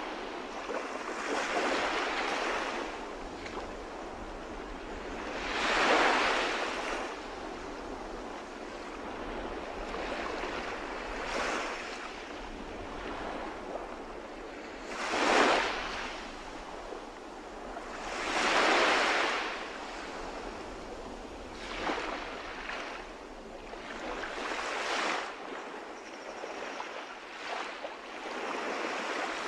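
Sea waves breaking and washing on the shore, one after another every few seconds, a louder surge about 6 s, 15 s and 19 s in, over a steady background wash.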